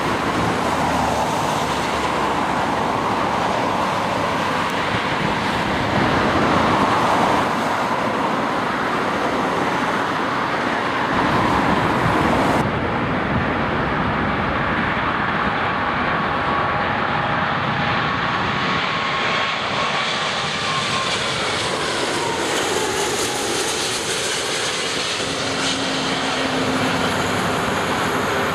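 Jet engine noise of an Airbus A340 four-engine airliner. It is a loud, steady rush that changes abruptly about halfway through, and later has a whine that falls in pitch as the aircraft passes.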